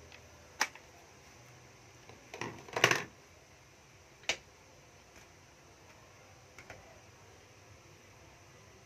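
A few sharp clicks and knocks from a cordless drill's plastic body being handled, the loudest cluster about three seconds in, the rest spaced out over a quiet background.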